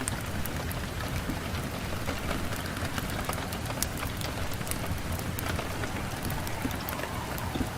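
Wood fire burning in a fireplace, crackling with many small irregular pops over a steady low rush of flames.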